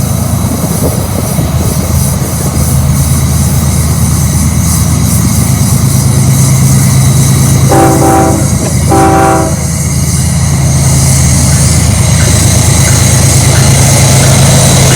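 Freight train diesel locomotives running loud with a steady low drone as the train rolls by. About halfway through, a locomotive horn sounds two short blasts in quick succession.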